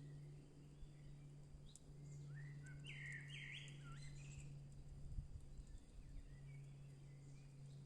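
Birds singing faintly in a forest, with a burst of song phrases about two to four seconds in and a few thin chirps around it, over a steady low hum.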